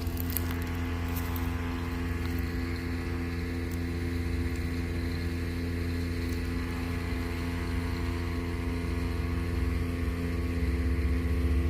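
Steady low hum of a running motor, holding one pitch, growing a little louder near the end, with a few faint clicks early on.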